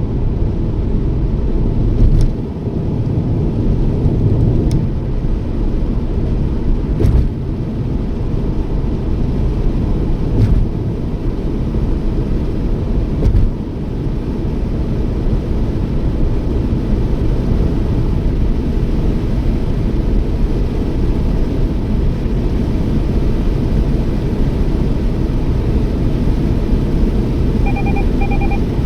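Toyota Yaris driving: steady low road and engine rumble, with a few thumps in the first half and a short double beep near the end.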